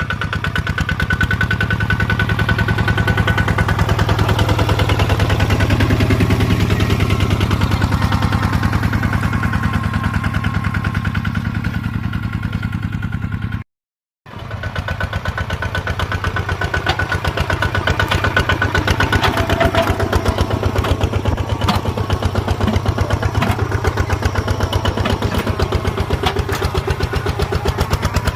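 Small tractor engine running steadily with a fast, even chug while plowing. It breaks off for about half a second near the middle, then carries on the same.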